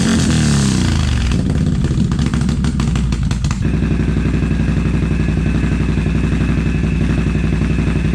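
Can-Am ATV's V-twin engine through an SLG Performance Series aftermarket exhaust, its revs falling away with some crackling. About three and a half seconds in it settles into a steady, evenly pulsing idle.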